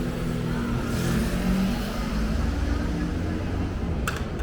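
A motor vehicle's engine running in city street noise, its pitch rising briefly about a second in, with a sharp click near the end.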